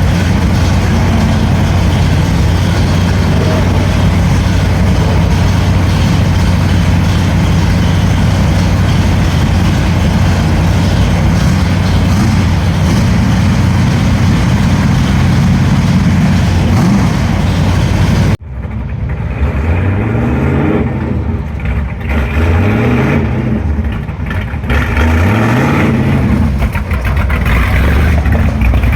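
Loud V8 stock car engine running at a steady speed. After a sudden cut about 18 seconds in, V8 engines rev up again and again, a rising note every two to three seconds.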